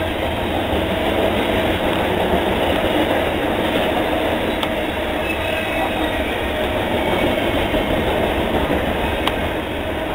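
High-sided freight cars rolling past close by, making a steady rumble and rattle of steel wheels on rail. Two sharp clicks stand out, about halfway through and near the end.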